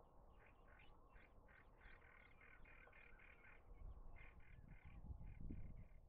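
Faint, rapid series of short bird calls, about three or four notes a second, running together into a dense chatter around the middle. A low rumble comes in near the end.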